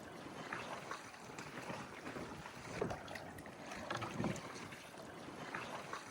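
Kayak paddles dipping and pulling through the water in steady strokes, faint soft splashes recurring about every second and a half.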